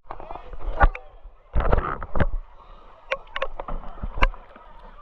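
Water splashing and sloshing around a kayak on the river, with a handful of sharp knocks and a noisier splash burst about a third of the way in.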